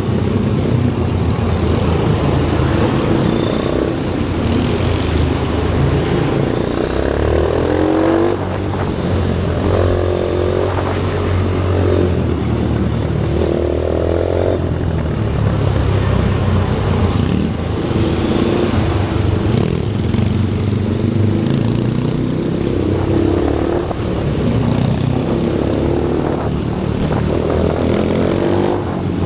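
Pit bike engines running and revving on a track. Their notes rise and fall every few seconds over a steady low rumble.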